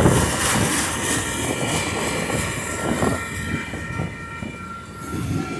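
Rail cars of a long Union Pacific train rolling past at a level crossing, a continuous rumble and clatter of wheels on track. A thin steady high tone sounds over it from about halfway through.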